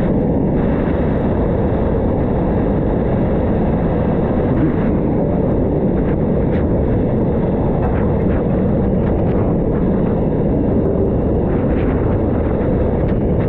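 Abrasive blast nozzle running steadily, firing fine crushed glass media to strip a hard plastic-like paint: an unbroken loud rushing hiss.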